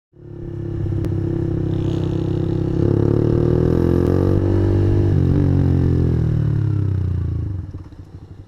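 Honda CG125 motorcycle engine running. The revs climb about three seconds in and are held, then drop back near the end to a lumpy idle.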